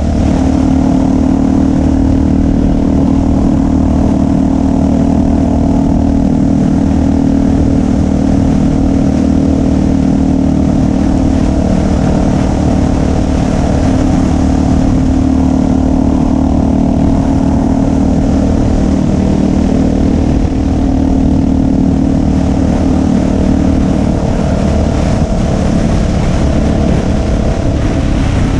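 Motorcycle engine running loud and steady at an even pitch while riding along, with no change in revs.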